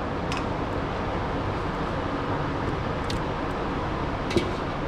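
A steady background rumble like passing traffic, with a few short light clicks, the loudest one near the end.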